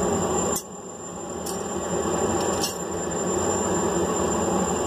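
Steady mechanical roar of shop machinery with a few light clicks. The roar drops abruptly about half a second in and builds back up over the next couple of seconds.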